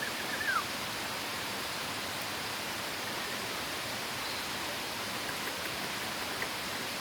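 Steady rushing water of a waterfall or stream. Near the start there is a brief high call that falls in pitch.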